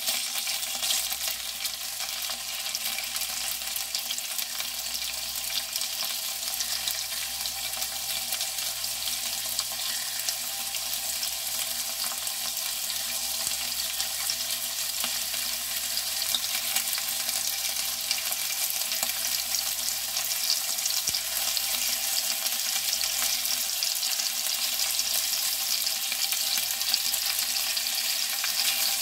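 Cocktail sausages and sliced pork belly frying in a non-stick pan: a steady sizzle with fine crackling, stirred now and then with a spatula. The sizzle grows a little louder from about halfway through.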